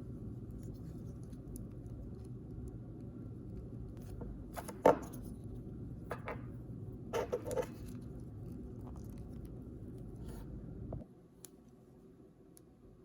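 Toy packaging handled by hand: a few short crinkles and taps, the loudest about five seconds in and a quick cluster a couple of seconds later. A steady low hum runs underneath and cuts off near the end.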